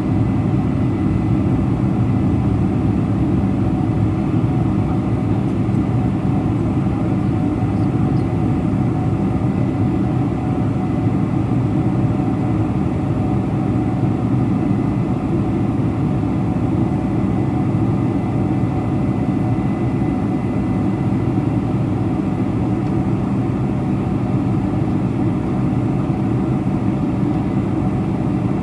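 Steady cabin roar of a Boeing 747-400 Combi heard from a window seat: an even, deep rush of jet engines and air, with a faint high whine held throughout.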